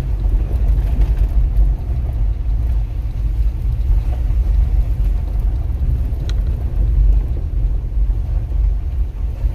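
Pickup truck in four-wheel drive crawling up a rough gravel backroad: a steady low rumble of engine and road noise, with one short sharp tick about six seconds in.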